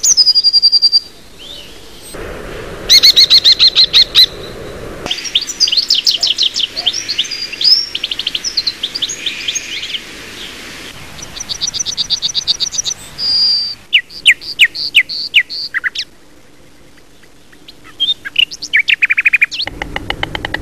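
Different birds singing and calling in turn, in short separate recordings: a held whistle, fast trills, runs of chirps and a series of falling whistled notes, each starting and stopping abruptly.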